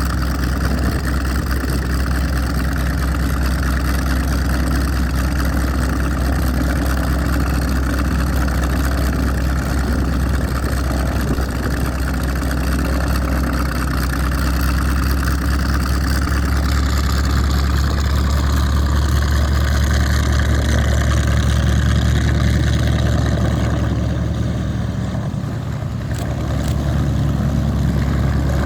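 Hawker Sea Fury's radial piston engine running steadily during a ground test run, a loud, deep, even drone. About seventeen seconds in the higher part of the sound falls away, and near the end it briefly dips and then picks up again.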